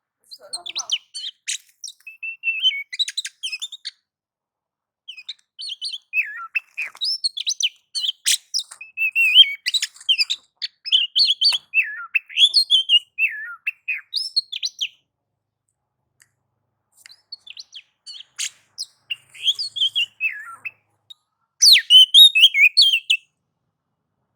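Oriental magpie-robin (kacer) singing loudly in its agitated fighting-mode song ('nagan'/'ngobra'): rapid bursts of varied chirps, trills and whistles, pausing twice for a second or two. It is the kind of song used to provoke rival magpie-robins.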